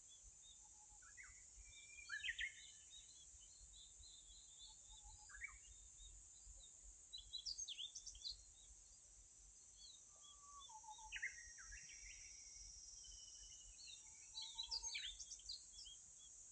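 Faint birdsong outdoors: short runs of high chirps from small birds every few seconds, over a steady high-pitched hiss.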